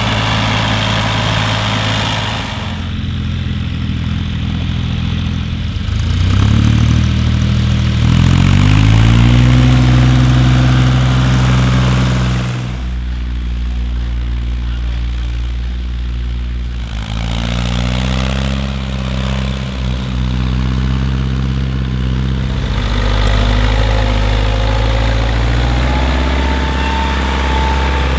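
Heavy tractor engines running, their note climbing twice as the engine revs up and then holding at a higher steady speed, with sudden changes in the sound every few seconds.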